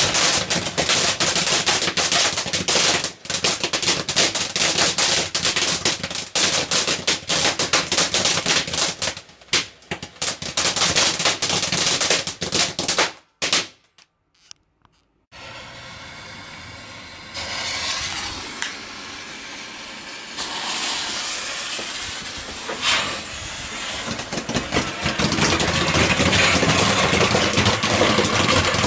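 Ground fireworks going off: a dense run of rapid sharp cracks and crackling that dies out about 13 seconds in. After a short silence a second firework starts hissing and builds up into a loud crackling shower of sparks.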